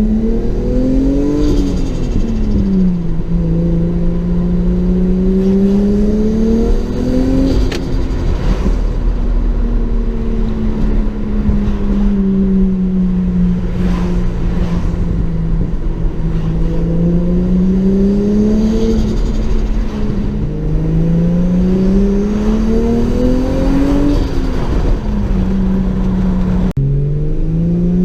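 Turbocharged Lexus IS200 straight-six accelerating through the gears: the engine note climbs, then falls at each lift-off and gear change, several times over. Turbo flutter, compressor surge on lift-off, is heard at the throttle lifts. An abrupt jump in the sound comes near the end.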